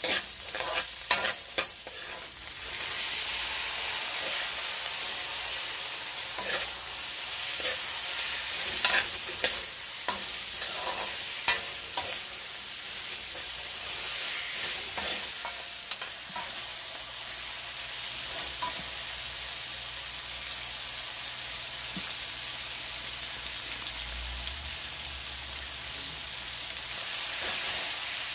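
Sliced red onion, garlic and then tomatoes frying in oil in a metal wok, with a steady sizzle that grows louder about two and a half seconds in. A metal spoon stirring the food clicks and scrapes against the wok, most often in the first half.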